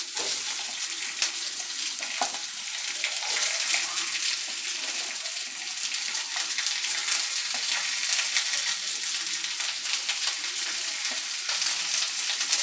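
Sliced onions sizzling steadily as they fry in hot mustard oil in a kadai, with scattered clicks and scrapes of a spatula stirring them.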